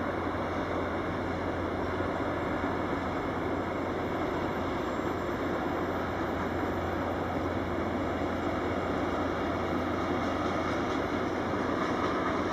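Freight wagons rolling past on the track, a steady rumble of wheels on rails that grows a little louder near the end.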